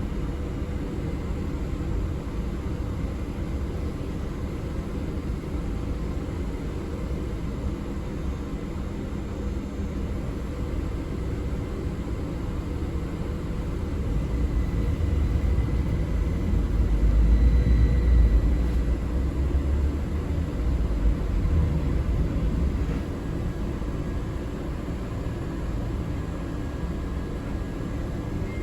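Steady low rumble of a city bus heard from inside the moving cabin. It swells louder for several seconds past the middle, with a faint high whine at its peak.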